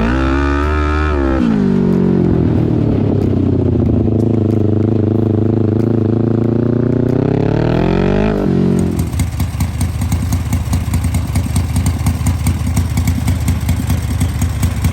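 A small race car engine running: its pitch swings up and down and then climbs slowly. About eight seconds in it drops into a steady, pulsing idle.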